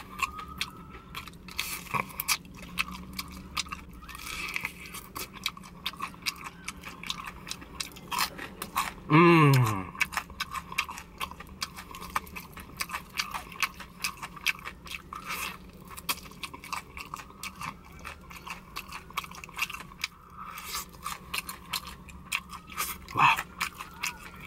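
Close-up chewing of crispy fried chicken: crunching with many wet mouth clicks and smacks. About nine seconds in comes a hummed "mmm" that falls in pitch, the loudest sound here.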